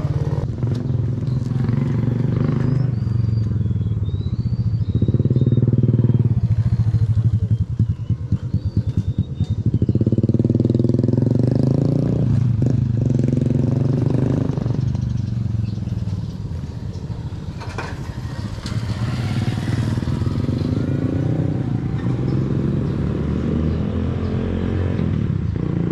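Motorcycle engine running steadily, its pitch rising and falling several times as it is throttled up and eased off. Faint bird chirps come through early on.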